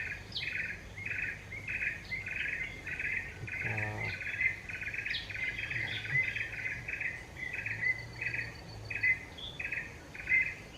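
Rhythmic chirping of a night insect, an even train of buzzy pulses about two a second, with a few short, sharper chirps over it.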